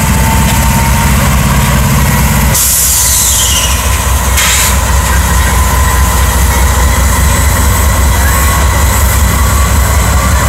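Freight train rolling past close by, with a loud steady rumble of locomotive and cars and a thin, steady squeal of wheels on the rails. About two and a half seconds in comes a brief hiss, and the low engine-like throb drops away.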